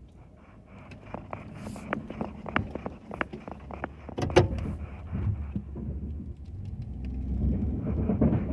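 Pickup truck engine running under a string of sharp clicks and knocks, the loudest about four and a half seconds in; the engine grows louder near the end.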